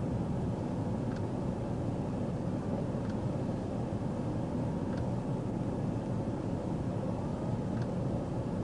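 Steady hum of a stopped police patrol car with its engine idling, with faint light ticks about every two seconds.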